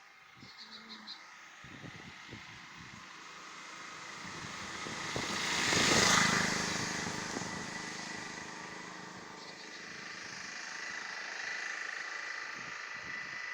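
A road vehicle passing close by, its noise building up, loudest about six seconds in, then fading away.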